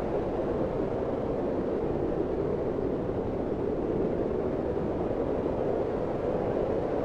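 Steady wind, an even, constant rush of noise that sits mostly in the low-middle range, without gusts or breaks.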